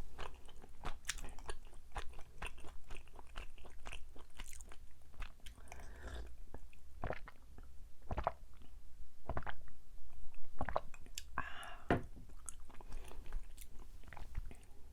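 Close-up chewing of chewy Korean rice cakes (tteok): an irregular run of short sticky mouth clicks and smacks.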